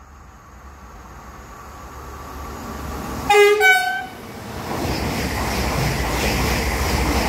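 Double-deck electric passenger train sounding a two-tone horn about three seconds in: a short low note, then a higher one. It then runs through at speed with a growing rush of wheels and air as it passes close by.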